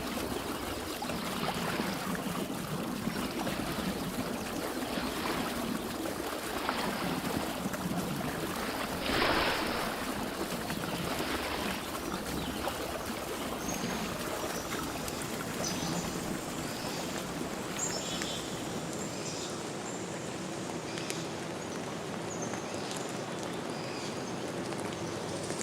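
Running water: a steady wash that surges every second or two, with one stronger splash about a third of the way in. Short high chirps come in about halfway through.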